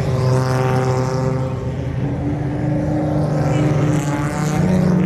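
Several race cars' engines running loud together as the cars lap the track, their engine notes overlapping and getting louder near the end as cars come closer.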